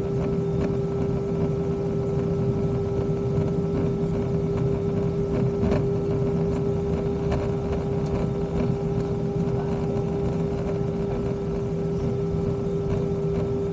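Airbus A320's engines at idle before takeoff, heard inside the cabin: a steady drone with one strong hum tone over a low rumble, and a few faint clicks.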